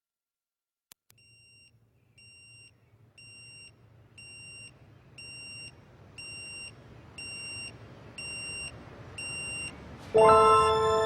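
Electronic alarm beeping, short high beeps about once a second that grow steadily louder. Music begins loudly about ten seconds in.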